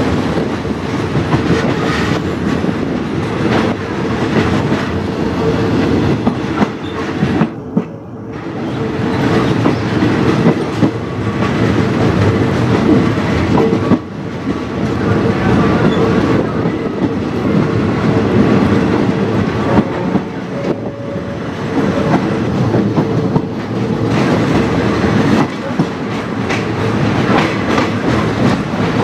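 Passenger train running at speed, its wheels clattering over rail joints in a steady rumble, heard from an open carriage window.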